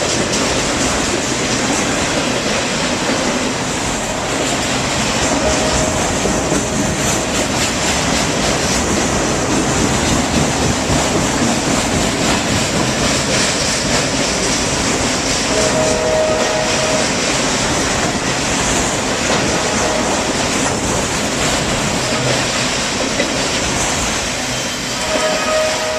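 A train rolling past close by, its wheels clattering steadily over the rails, with short wheel squeals now and then.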